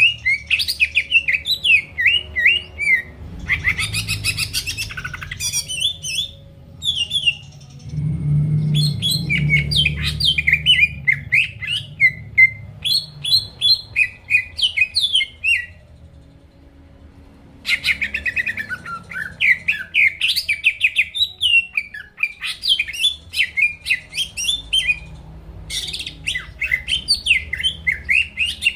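Green leafbird (cucak ijo) singing continuously in full song: long runs of fast, slurred whistled and chattering notes that rise and fall, broken by two short pauses.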